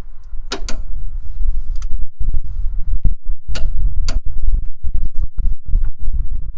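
Half-inch torque wrench working the steering box mounting bolts: a run of sharp metallic clicks, the loudest in pairs about half a second and three and a half seconds in, then quicker lighter clicks, over a heavy low rumble.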